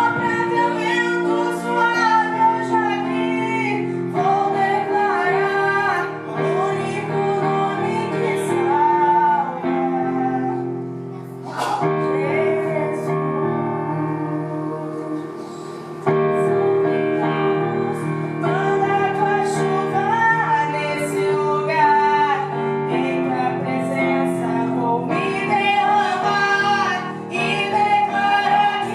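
A woman singing a gospel song over piano accompaniment. The accompaniment holds sustained chords under the melody, and the music drops to a quieter passage for a few seconds near the middle before coming back up.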